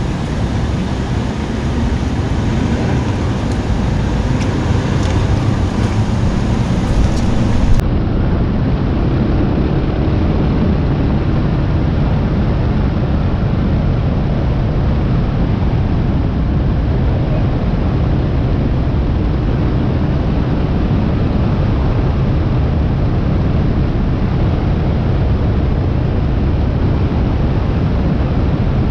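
Single-cylinder 650 dual-sport motorcycle under way at road speed: a steady engine and wind noise. About eight seconds in the sound changes abruptly and becomes duller.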